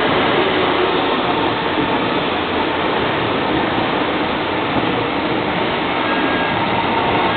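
A train running along the track: a loud, steady rolling noise with faint steady whining tones over it.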